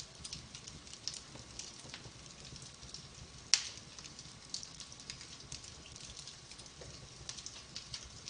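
Wood fire crackling in a fireplace: a steady scatter of small pops and snaps, with one sharp, louder pop about three and a half seconds in.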